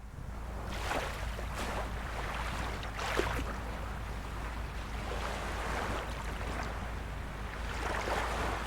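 Small waves of a calm sea lapping and splashing, with a few louder splashes about a second in, around three seconds in and near the end. A steady low rumble runs underneath, and the sound fades in at the start.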